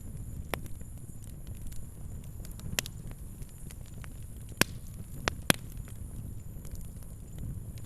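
Wood fire burning with a low rumble and irregular sharp crackles and pops, the loudest pops about three seconds in and twice around five seconds.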